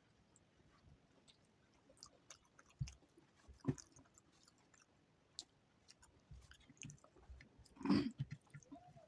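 Close-miked chewing of a rice and vegetable-curry meal: soft, irregular wet mouth clicks and smacks, with one louder mouth sound near the end.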